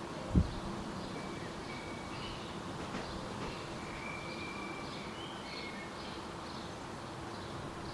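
Birds calling in short, thin whistled notes, some level and some stepping up or down, with fainter repeated chirps higher up, over a steady outdoor background. A single low thump about half a second in is the loudest sound.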